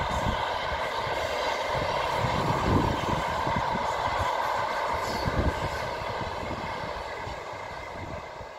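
Passenger train running past along the track, a steady rumble and rush of wheels on rail that fades as it draws away over the last couple of seconds.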